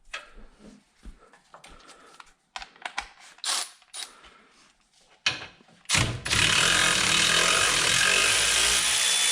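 Scattered clicks and knocks of tools and metal parts being handled, then, about six seconds in, a power tool runs steadily and loudly for about four seconds, loosening a fastener on the vehicle.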